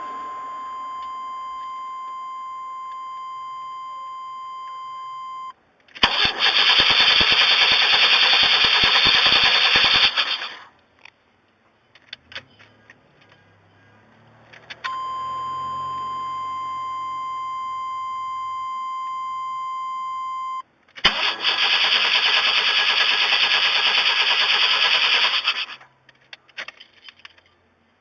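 Starter motor cranking the 1994 Chevrolet Astro's engine twice, about four seconds each time, without the engine firing: a crank-but-no-start caused by a failing ignition control module. Before each crank a steady electronic warning tone sounds for about five seconds, and a few light clicks come between the two attempts.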